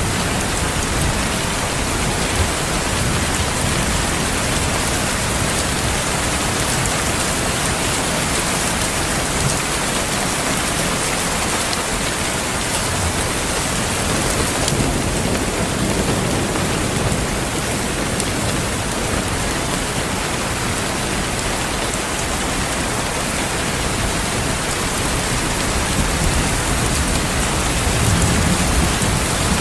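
Steady heavy rain falling on a surface, with low rumbling swells of distant thunder now and then, strongest near the end.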